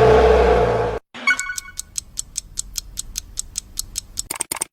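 A loud held music note over bass cuts off about a second in. A quick run of sharp ticks follows, about six a second, speeding up near the end and then stopping abruptly.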